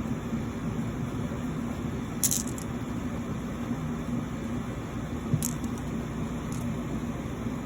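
Steady background hum with a few sharp clicks of tumble-polished stones knocking together as they are handled, the loudest about two seconds in and another about five seconds in.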